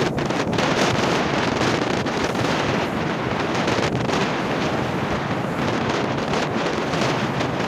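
Strong wind buffeting the microphone over a rough sea, a steady rushing noise of wind and big waves with no let-up.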